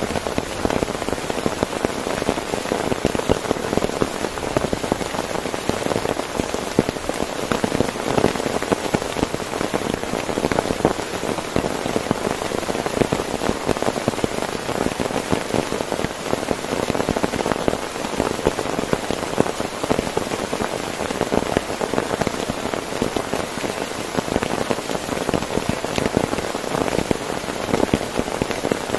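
Heavy rain falling steadily on a tent, a dense, even stream of drop hits with no letup.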